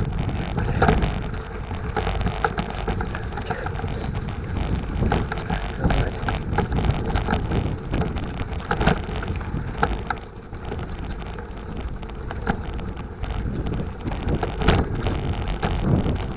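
Bicycle riding over a rough dirt track: tyres rumbling, with constant rattling and clicks from the bike jolting over bumps, and wind buffeting the microphone.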